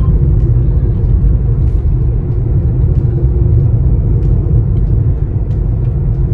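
Steady low rumble of a car's road and engine noise, heard from inside the moving vehicle, with a few faint ticks.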